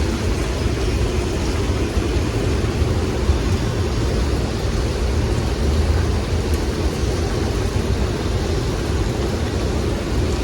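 Strong storm wind with rain: a steady, loud rush with a deep, fluctuating rumble.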